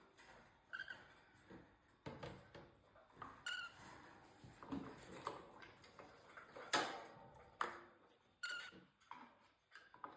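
Cockatiel giving a few short, soft chirps, mixed with scattered faint clicks and taps, the loudest tap about seven seconds in.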